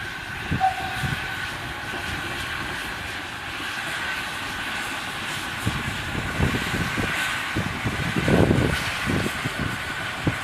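Train running on the rails, a steady hum with irregular low knocks and clatter, loudest about eight seconds in.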